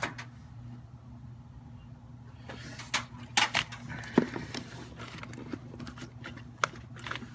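Scattered light clicks and knocks of tools and small parts being handled, over a steady low hum.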